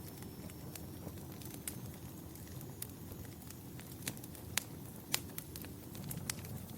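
Fire in a fireplace crackling: a low, steady rumble of flames with scattered sharp pops, a few louder snaps in the second half.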